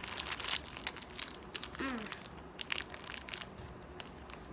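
Crinkling and crackling of handled plastic candy packaging, with a short falling vocal sound about two seconds in.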